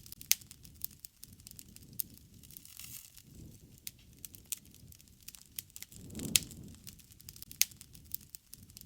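Wood campfire crackling, with sharp irregular pops scattered throughout, the loudest near the start and a little past halfway. A brief low rush swells up alongside the loudest pop.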